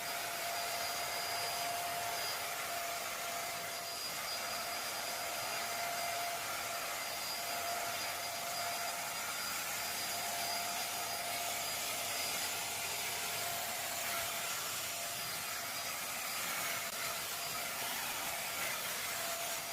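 Small corded 600-watt stick vacuum cleaner running steadily: a constant motor whine over the rush of sucked air, loud, as its suction is strong.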